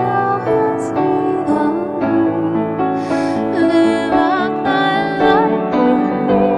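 A solo singing voice with vibrato over a gentle piano accompaniment, a slow hymn-like song.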